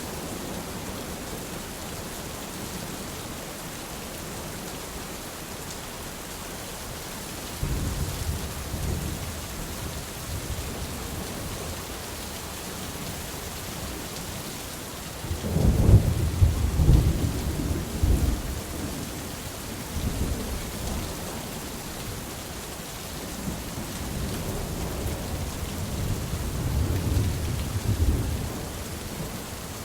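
Steady rain with rolls of thunder: a low rumble swells a quarter of the way in, a louder roll comes in the middle and another near the end.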